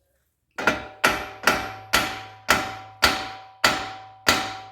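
Eight hammer blows on metal, about two a second, each leaving a ringing tone that dies away before the next.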